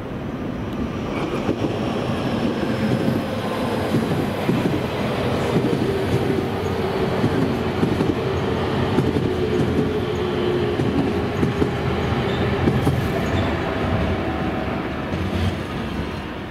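Nankai 9000 series electric train, VVVF-controlled, running past on the tracks. Steady wheel-on-rail rumble and clatter under a faint motor hum, swelling over the first couple of seconds and fading near the end.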